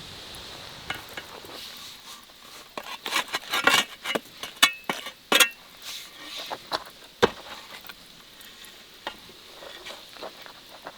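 A run of short crackles and clicks of something being opened and handled, busiest in the middle, over a steady high insect drone.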